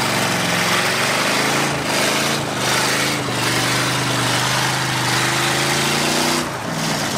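A 1970 Plymouth Satellite's V8 held at high revs in a burnout, its rear tires spinning against the surface in a loud steady rush; the engine pitch wavers up and down, then falls away near the end as the throttle comes off.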